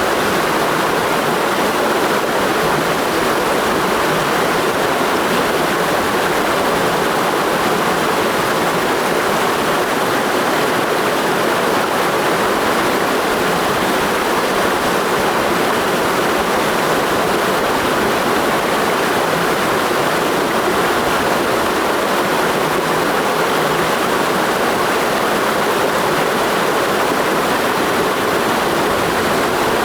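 Clear mountain stream flowing, a steady, unbroken rush of water.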